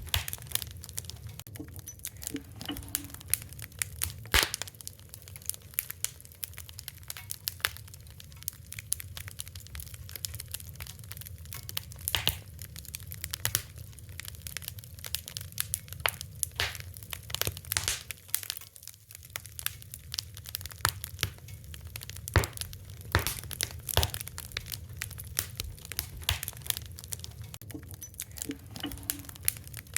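Fire crackling, with irregular sharp pops and snaps over a low steady rumble.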